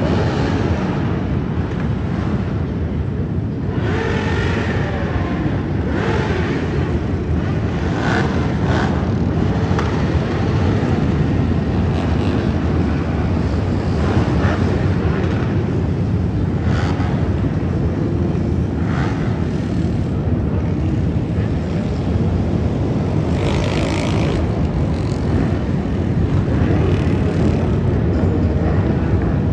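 Motorcycles in a group ride: a steady low engine rumble with short louder swells every couple of seconds as bikes rev and pass.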